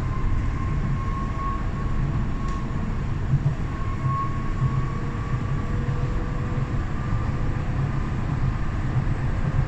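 Docklands Light Railway train running through a tunnel, heard from inside the carriage: a steady low rumble with a thin, high whine held over it.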